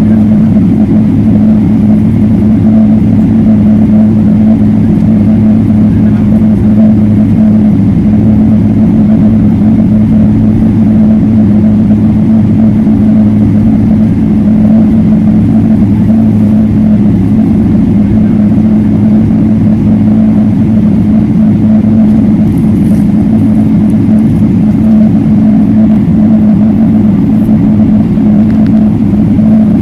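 Steady, loud drone of a Boeing 777-300ER's GE90 jet engines heard inside the passenger cabin, a constant low hum with no change in pitch.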